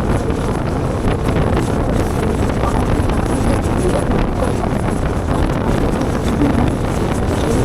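Suzuki Carry Pro mini truck driving loaded on the road: steady engine and road noise.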